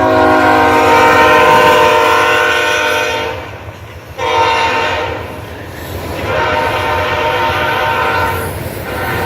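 Diesel locomotive air horn sounding a multi-note chord in three blasts: long, short, then long, the closing part of the grade-crossing signal. A steady low rumble of the passing train runs underneath.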